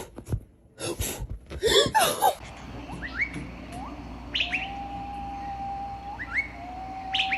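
A bird chirping, with short rising chirps every second or two. From about four seconds in come long held whistled notes that sweep up at their ends. A few loud, jumbled noises come first, in the opening two seconds.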